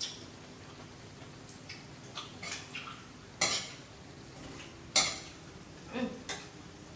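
Intermittent clatter and clinks of small hard objects, like dishes or utensils being handled, with two sharper clinks a little past three seconds and at five seconds in.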